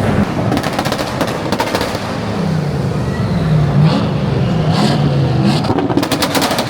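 A car engine revving up and down repeatedly, with bursts of rapid popping exhaust crackles about a second and a half in and again near the end.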